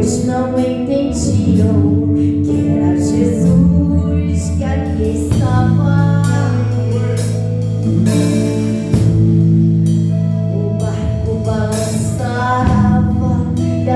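Live gospel worship song: a singer over a band with a drum kit, with steady drum and cymbal hits under sustained chords.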